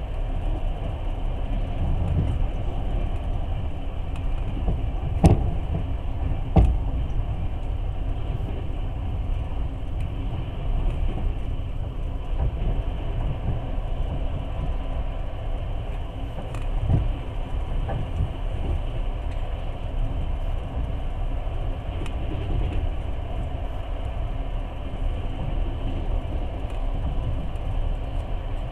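Passenger train running at speed, heard from inside the carriage: a steady low rumble of wheels on the track. Sharp knocks come about five and six and a half seconds in, and once more near the middle.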